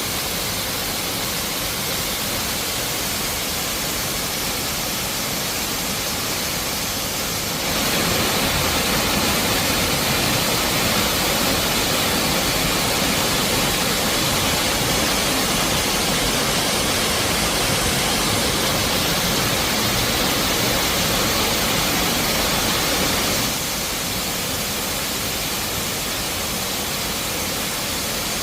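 Dzhur-Dzhur waterfall, falling water rushing in a steady, unbroken wash of noise. It grows abruptly louder about a quarter of the way through and drops back just as suddenly near the end.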